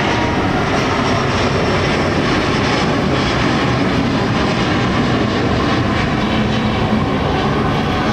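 Airliner engines running loud and steady, an even rush of engine noise that holds without letup.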